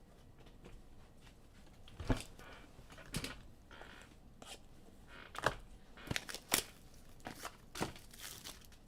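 Scattered clicks, taps and crinkles of plastic packaging and small objects being handled, with a few sharper knocks, the loudest about two and six and a half seconds in.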